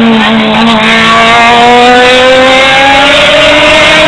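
Racing truck's diesel engine running loud under acceleration, its pitch rising slowly and steadily.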